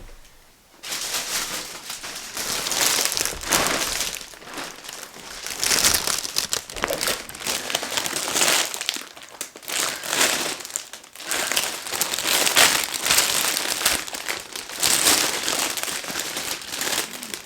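Packaging crinkling and rustling as a large delivery box is unpacked by hand, starting about a second in with uneven swells.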